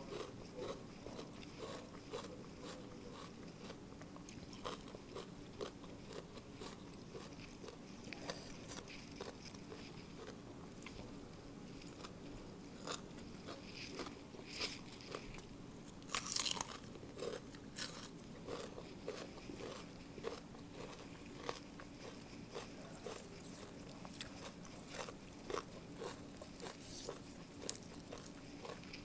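A person chewing crunchy papaya salad and raw vegetables up close: irregular crisp bites and crunches throughout, the loudest a little past the middle.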